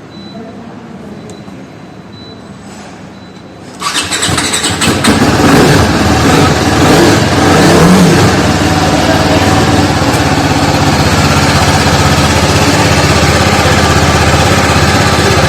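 TVS Apache RR 310's 312 cc single-cylinder engine starting, about four seconds in, then running steadily on its exhaust. The exhaust note is loud.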